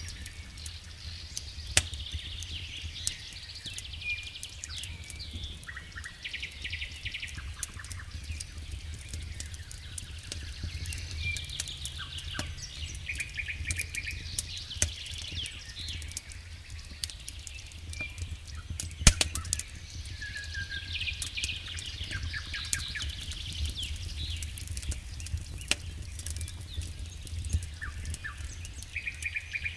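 Wood fire crackling, with scattered sharp pops; the loudest comes about nineteen seconds in. Small birds chirp and trill throughout over a steady low rumble.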